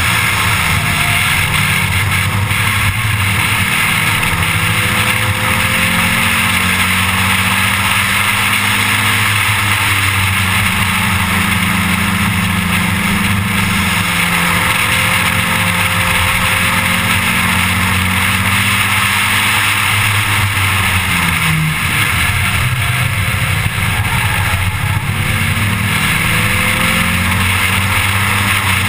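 1987 Audi 4000S race car's engine running hard through a lap. Its note rises and falls several times with throttle through the corners, over a steady rush of wind and road noise.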